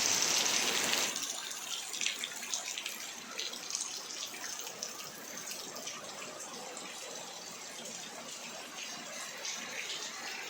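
Heavy rain falling steadily, with close drops and splatters ticking through the hiss; a little louder for the first second.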